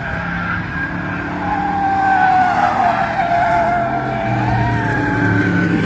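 Bomber-class stock car engines running at race speed as the field laps the track, several engine tones wavering together, getting louder about a second and a half in.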